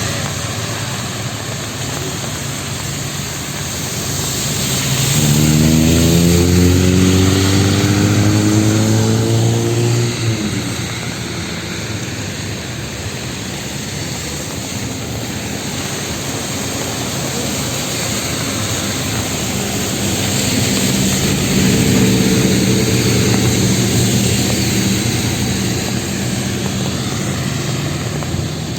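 City street traffic over a steady hiss of rain. About five seconds in, a vehicle engine accelerates past, rising in pitch for several seconds; later another engine runs more steadily for a few seconds.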